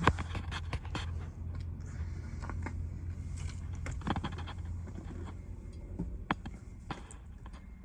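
Scattered clicks and scrapes of handling inside a vehicle cab, over a steady low hum.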